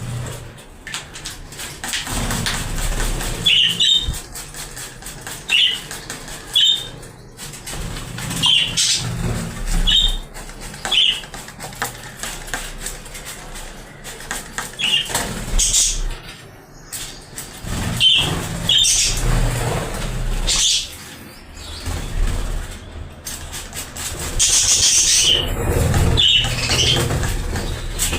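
Budgies bathing: wings fluttering and splashing in water in repeated bursts, with short high chirps scattered throughout.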